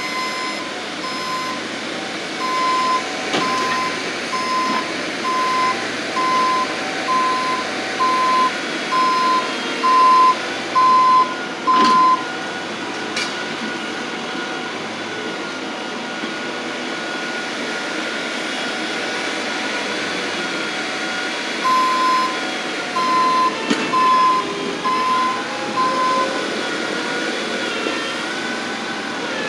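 Bobcat skid-steer loader's engine running under load, with its backup alarm beeping about once a second while it reverses, in two runs: for the first twelve seconds or so, and again for a few seconds past the middle.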